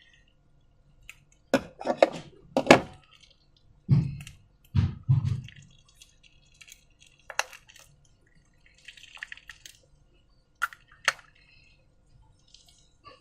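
Slime being handled: a series of wet, sticky clicks and taps, with two duller low thuds about four and five seconds in.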